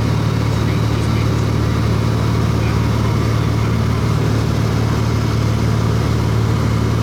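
Light aircraft's piston engine and propeller droning steadily, heard from inside the cabin in level flight.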